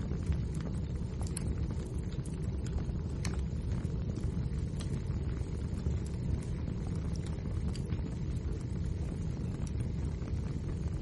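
Wood fire burning, with irregular sharp crackles and pops of the burning logs over a steady low rumble of the flames.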